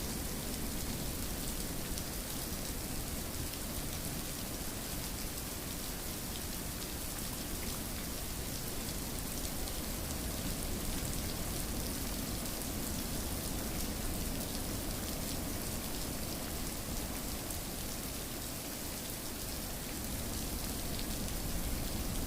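Steady rain falling: an even hiss with a dense patter of drops.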